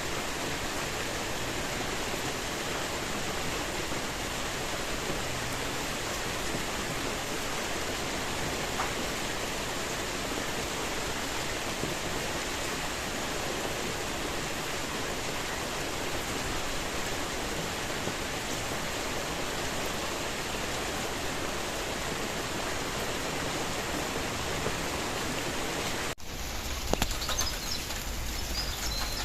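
Steady, even rainfall hiss. About three seconds before the end it cuts off abruptly to lighter rain with birds chirping.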